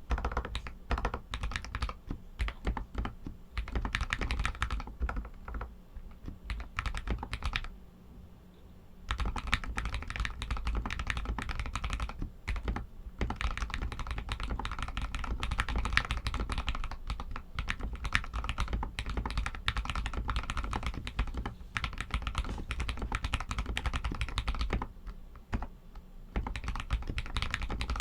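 Royal Kludge RK61 mechanical keyboard with Outemu Red linear switches being typed on in a fast continuous stream of key clicks, with brief pauses about eight seconds in and near the end.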